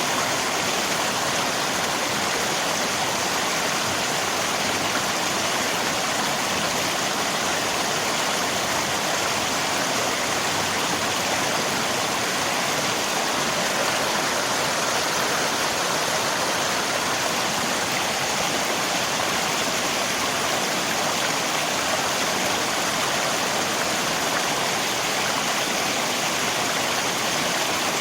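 River water rushing steadily with rain mixed in, an even, unbroken wash of noise.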